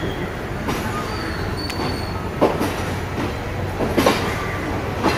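Passenger train moving slowly out of the station, heard from inside the carriage: a steady rumble broken by about half a dozen irregular clacks and knocks from the wheels and couplings.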